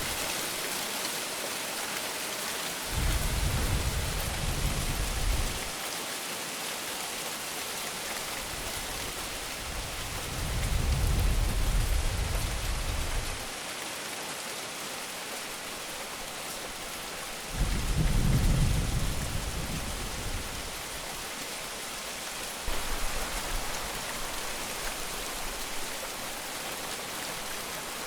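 Heavy rain falling steadily, with deep rolls of thunder rumbling four times. The third roll breaks in suddenly and is the loudest.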